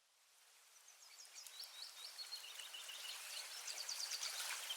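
Birds chirping over the gentle, steady rush of a flowing river, fading in gradually from silence.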